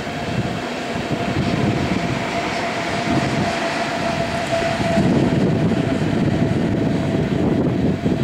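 Train running through a station: rumbling wheel and rail noise with a steady whine over it.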